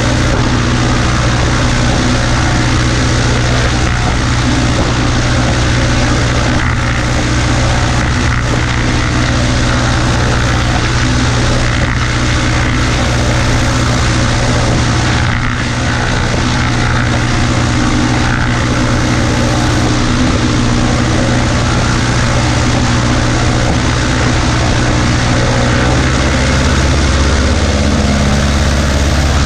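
Cessna 140A's piston engine and propeller running steadily at a loud, even drone; near the end the engine note shifts to a different, lower-set pitch.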